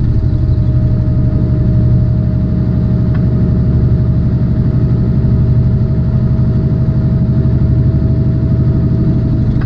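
Tractor-trailer's diesel engine running steadily under way, a loud, even low drone heard from inside the cab, with a thin steady whine over it.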